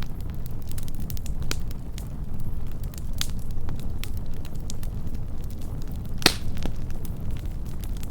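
Wood campfire burning, a soft low roar of flames under scattered sharp crackles and pops of the burning wood, with one louder pop about six seconds in.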